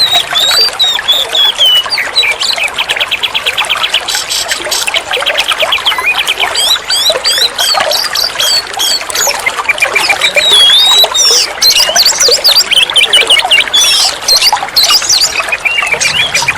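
Oriental magpie-robin (kacer) singing continuously: looping whistled phrases mixed with fast rattling trills, over a steady trickle of running water.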